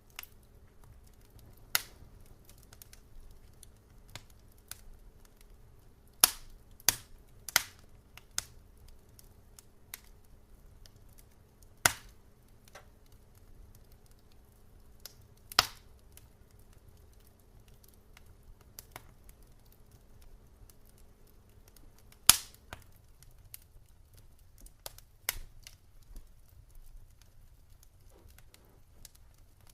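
Wood fire in a fireplace crackling, with irregular sharp pops and snaps, a few of them loud, over a faint low rumble. A faint steady hum underneath stops about two-thirds of the way through.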